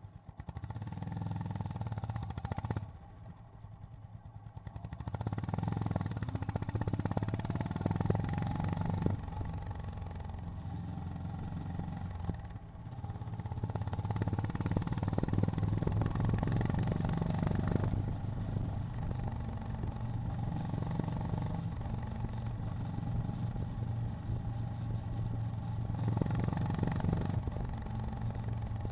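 Honda GB350's air-cooled single-cylinder engine running as the motorcycle is ridden, a low pulsing note. The throttle eases off about three seconds in and again briefly around twelve seconds, and the engine pulls back up each time.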